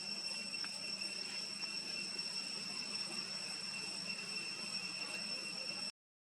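Steady, high-pitched insect drone over faint background hiss, with a few soft ticks, cutting off suddenly near the end.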